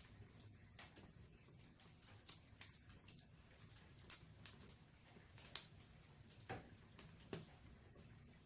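Wood fire in a fireplace crackling faintly, with about ten sparse, irregular pops and snaps.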